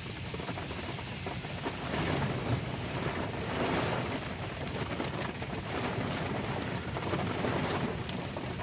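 Heavy rain and strong gusting wind in a thunderstorm, the wind swelling louder about two seconds in and again near the end.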